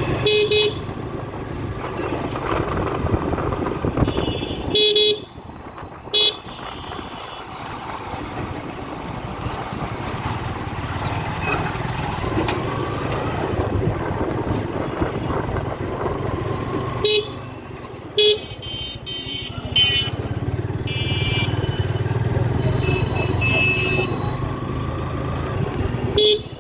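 A motorcycle running through street traffic, engine and road noise steady under it, with short horn honks several times, some in quick pairs.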